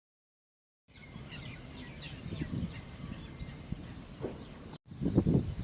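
Insects chirring steadily at a high pitch, with short bird chirps over them and a low rumbling noise underneath. It starts about a second in, breaks off briefly near the end, and then the low rumble comes back louder.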